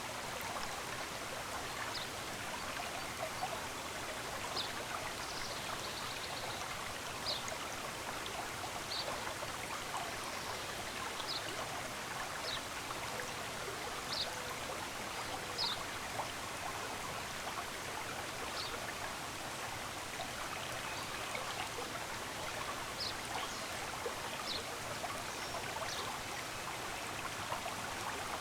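A stream running with a steady rushing, and short high bird chirps every second or two.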